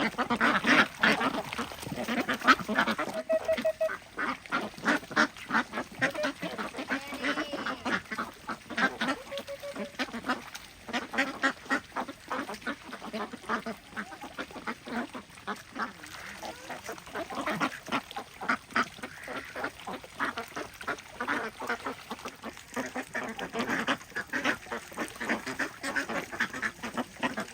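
A flock of ducks quacking, many short calls overlapping in rapid succession without a break.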